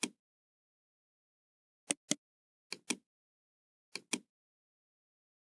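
Computer mouse clicking: sharp clicks in pairs about a second apart, three pairs in a row, with silence between.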